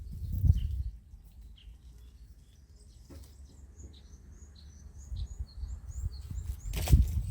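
Small songbirds chirping, with many quick high notes that come faster in the second half, over a low rumble. A loud thump or rustle sounds near the end.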